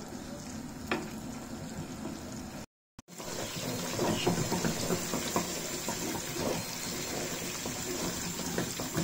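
Lamb meatballs frying in oil in a frying pan: a steady sizzle with small crackles, and a wooden spoon knocking once against the pan about a second in. After a brief gap about three seconds in, the sizzling comes back louder with more crackling as the browned meatballs fry.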